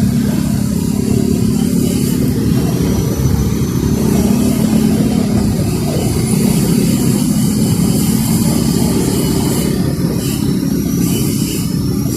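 Motorcycle engine running steadily under way, its pitch shifting a little with the throttle over a low road rumble.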